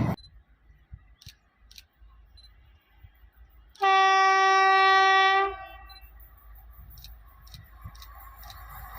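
An Indian Railways electric locomotive horn sounds one steady, loud blast of about a second and a half, a little under four seconds in. After it, the low rumble of an approaching train slowly grows louder.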